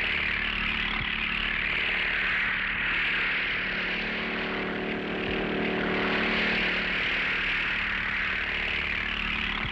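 Small engine of a one-man light helicopter running steadily, with its pitch shifting slightly about halfway through.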